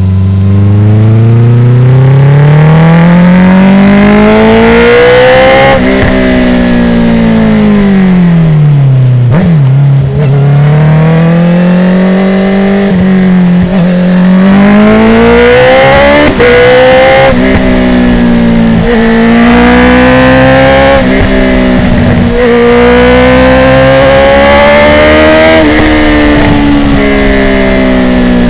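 2019 Honda CB650R's inline-four engine through an Akrapovic titanium full exhaust with the dB killer removed, pulling hard and repeatedly climbing in pitch with short breaks between gears from quickshifter upshifts. About six seconds in the engine note falls away for a few seconds before climbing again.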